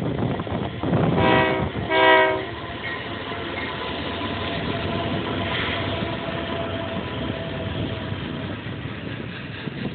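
Union Pacific freight locomotive's air horn sounding two short blasts about a second in, followed by the steady rumble of the loaded grain train running past.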